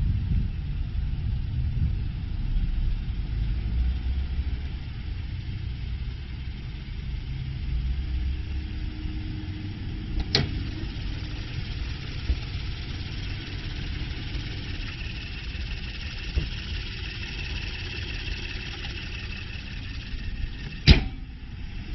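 A vehicle engine idling with a steady low rumble, with two sharp clicks, one about halfway through and one near the end.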